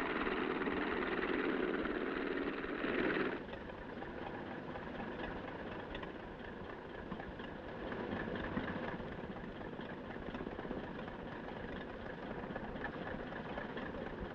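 Light floatplane's propeller engine running loudly, then dropping abruptly to a quieter steady run about three seconds in, as on throttling back for the landing on water.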